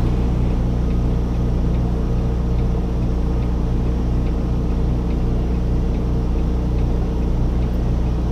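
Semi truck's diesel engine running steadily at low revs while the tractor-trailer is backed into a dock, with a faint regular ticking over it.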